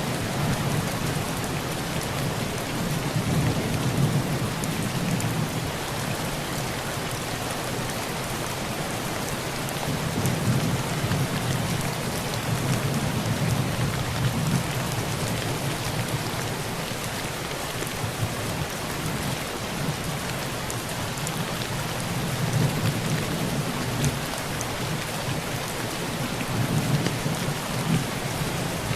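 Heavy rain pouring steadily on a tin roof, with thunder rumbling low underneath in slow swells that rise and fade several times.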